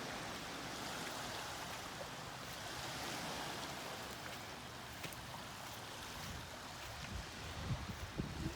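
Steady wash of small waves and water along the Lake Ontario shoreline, with a few low bumps near the end.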